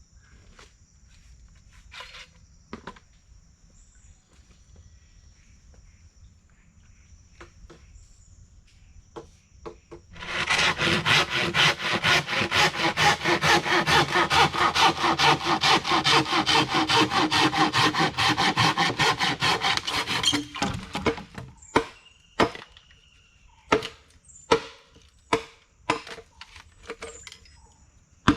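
Wood being sawn by hand: about ten seconds of fast, steady back-and-forth strokes, followed by a few sharp separate knocks. A faint steady high insect drone runs underneath before the sawing starts.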